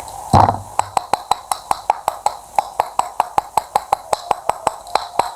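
A rapid, very even run of sharp taps, about six a second, each with a short ring, after one louder knock near the start.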